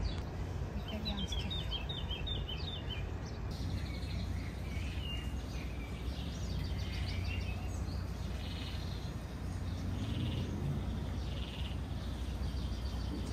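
Small birds chirping and singing in short repeated phrases, over a steady low rumble.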